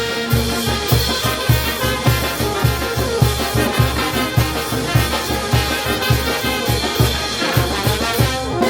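Peruvian brass band playing: trumpets and trombones over a steady low beat of about three strokes a second.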